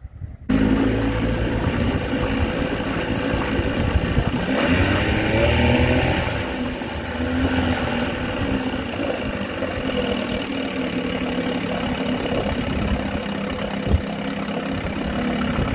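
Vintage Elgin two-stroke outboard motor running; it starts about half a second in, revs up and back down around the fifth and sixth seconds, then runs steadily, with one sharp knock near the end.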